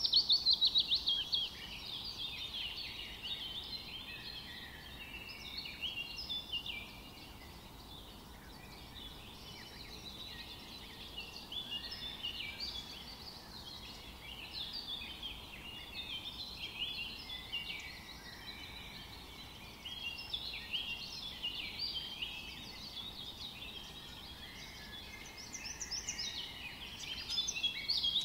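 Songbirds chirping and singing, many short overlapping calls and trills in a dense chorus, louder in the first second or so and again near the end.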